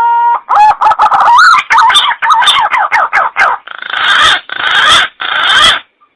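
Green pigeon (punai) calls: a whistle that finishes rising, a fast run of warbling whistled notes, then three harsh rasping notes that end the phrase.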